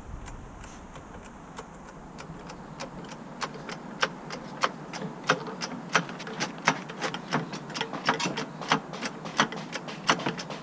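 A series of sharp, irregular metallic clicks and taps from hand tools being worked, growing busier and louder over the second half.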